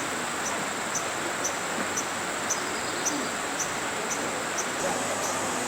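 Tropical insects calling: a steady high-pitched buzz with a short, sharp chirp repeating about twice a second.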